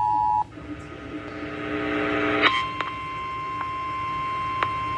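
Emergency Alert System tones over a radio broadcast: a steady two-note attention signal cuts off about half a second in, and after a short rising stretch of noise a single steady high alert tone begins about two and a half seconds in, announcing a severe thunderstorm warning.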